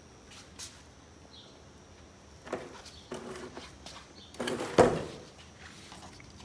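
A few short scraping and creaking handling sounds, the loudest about four and a half seconds in.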